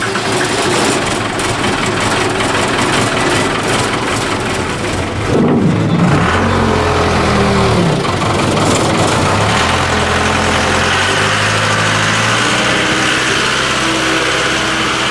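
Loader-backhoe engine running, its pitch sweeping up and down about five to eight seconds in, then holding steady.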